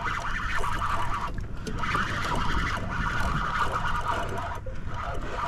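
Fishing reel buzzing steadily as line moves while an ono (wahoo) is fought from a kayak, with a low rumble of wind and water underneath.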